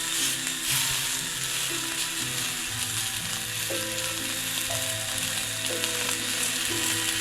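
Cicadas buzzing in a dense, steady chorus over soft background music.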